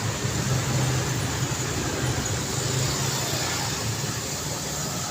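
Road traffic: a steady wash of passing car engines and tyre noise with a low rumble, easing slightly toward the end.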